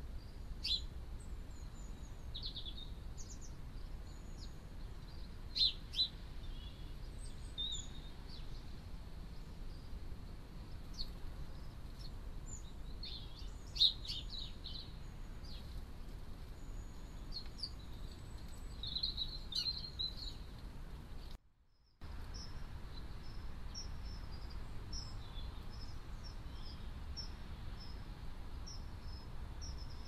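Small garden birds calling: scattered high chirps and short trills over a steady low outdoor rumble. The sound drops out for half a second about two-thirds through, and after it a series of short high notes repeats about once a second.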